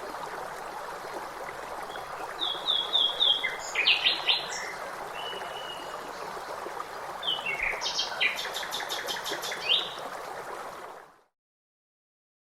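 Songbirds chirping and singing over the steady rush of a stream, with a quick trill of repeated notes near the end. The whole sound fades out about a second before the end.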